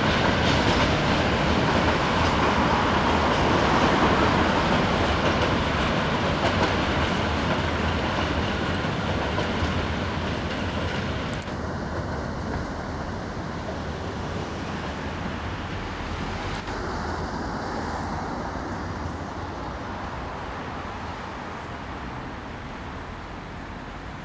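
Train rolling past on the track, with clattering wheels at first, then fading steadily as it moves away.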